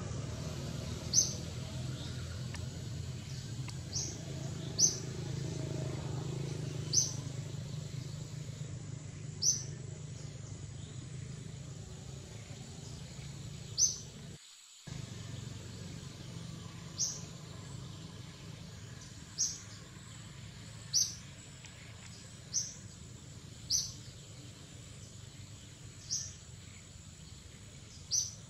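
A bird calling with short, high single chirps, one every one to three seconds, over a steady low background hum. Everything cuts out for a moment about halfway through.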